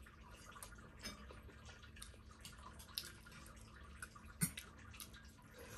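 Faint mukbang eating sounds: wet chewing and mouth smacks with scattered small clicks. The sharpest click comes about four and a half seconds in.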